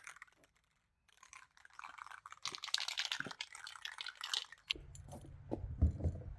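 Handling noise: crinkly rustling with light clinks, then a low rumble with a few knocks near the end as things are moved and set down.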